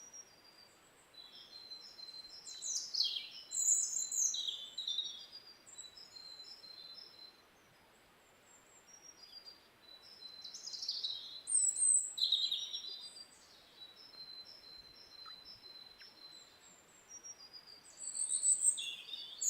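Several birds singing and chirping in a wild-bird chorus, with bursts of high calls and whistled sweeps coming every several seconds.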